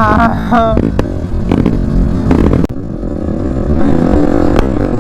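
Motorcycle engine running while riding, with wind rumbling on the microphone. A short wavering tone sounds right at the start.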